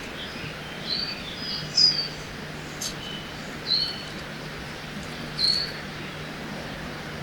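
Songbirds giving short chirps, several in quick succession about two seconds in and single ones later, over the steady rush of a river. A low steady hum comes in about one and a half seconds in.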